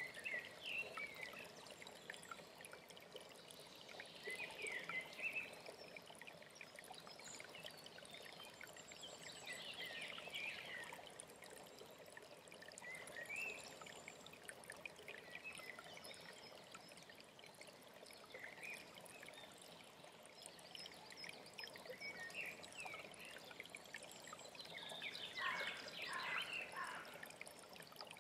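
A stream of water running steadily, with songbirds chirping on and off over it and a louder burst of bird song near the end.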